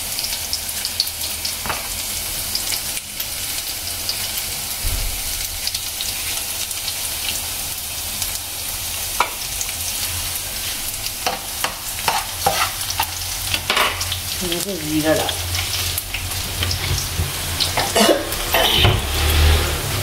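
Sliced onions sizzling steadily in hot oil in a frying pan, with scattered light clicks and taps throughout.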